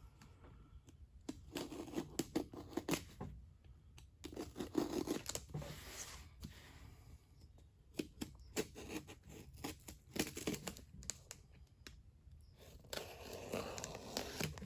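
Cardboard shipping box being cut open: a blade slitting the packing tape and the tape and flaps tearing back, in a series of short rips and scrapes with pauses between.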